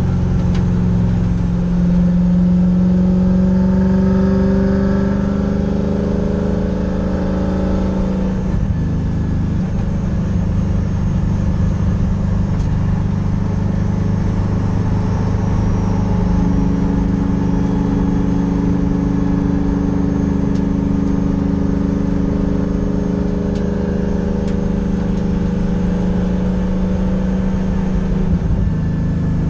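Race car engine held at high revs under load, heard from inside the stripped, roll-caged cockpit. Its pitch climbs slightly for the first several seconds, dips briefly about eight seconds in, then holds steady.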